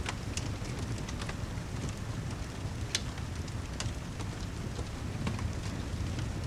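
Rain and fireplace ambience: steady rain over a low rumble, with scattered sharp crackles and pops from the fire, the loudest about three and four seconds in.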